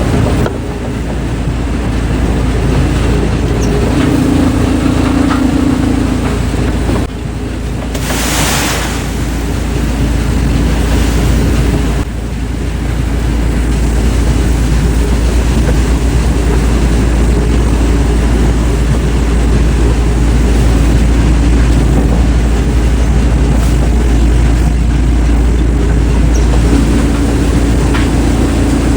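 Heavy wood-processing machinery running loudly, with a steady low engine drone under a grinding noise. The sound changes abruptly about 7 and 12 seconds in, and there is a brief loud hiss about 8 seconds in.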